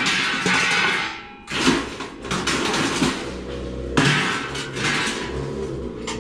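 Scrap metal being handled and moved: three long stretches of clattering and scraping metal, each lasting a second or two, with short pauses between them.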